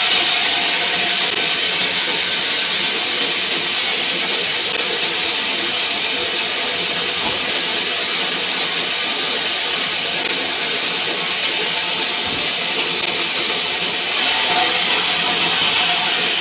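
Sawmill saw ripping through a pine log, a steady hissing rasp that grows slightly louder near the end.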